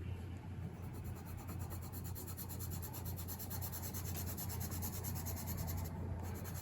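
Watercolour pencil scratching and rubbing on paper in quick, steady colouring strokes.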